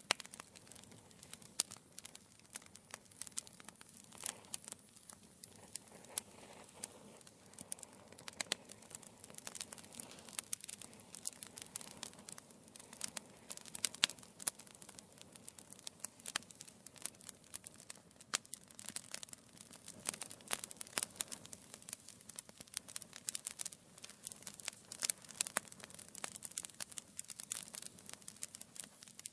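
Wood fire burning in a fireplace: logs crackling and popping with frequent irregular sharp snaps over a soft steady hiss of the flames.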